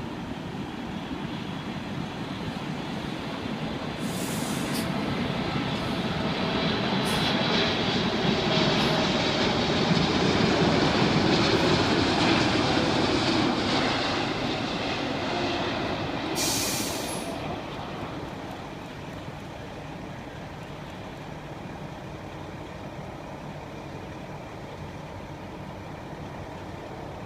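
Jet engine noise of a Boeing 747-8's four GEnx-2B turbofans as the airliner flies past on its landing approach. The rushing roar swells over several seconds, is loudest about ten seconds in, and fades away, with a faint engine whine gliding down in pitch.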